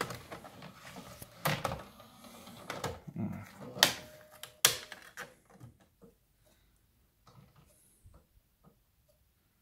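Handling noise: rustling with several sharp clicks and knocks, the loudest about four and five seconds in, thinning to a few faint clicks.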